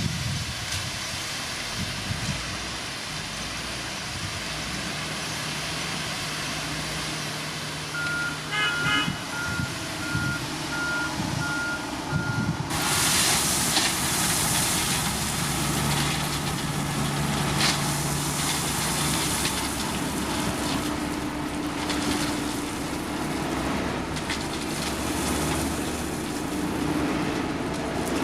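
Heavy construction machinery running, with a reversing alarm beeping evenly for about five seconds near the middle. Right after the beeping stops, a louder rushing, hissing noise sets in and continues.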